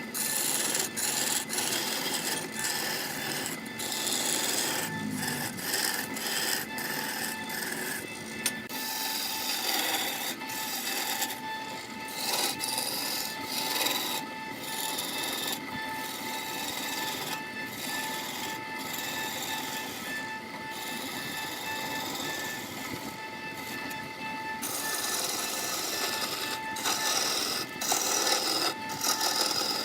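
Wood being cut and scraped on a lathe: a rasping scrape that stops and starts often, over a steady faint whine.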